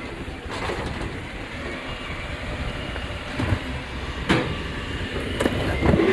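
Waste collection truck running with a low, steady rumble, with sharp metallic clanks about four seconds in and again near the end.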